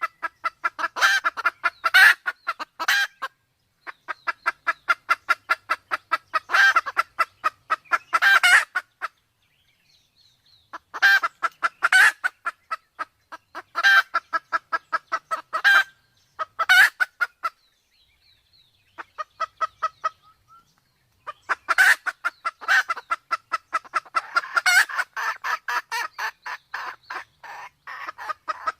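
Red junglefowl calling: fast runs of short, pitched clucks, about five a second. They come in bursts of a few seconds, broken by short pauses.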